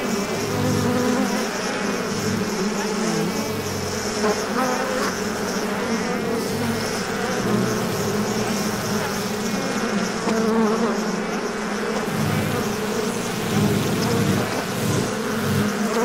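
Many honeybees buzzing together in a colony: a dense, steady hum that wavers slightly in strength but never stops.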